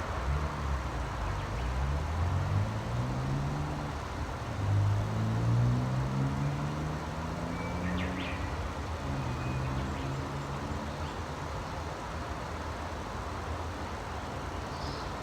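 A motor vehicle's engine accelerating, its low hum rising in pitch three times in steps as it works up through the gears. A short bird chirp comes about 8 seconds in.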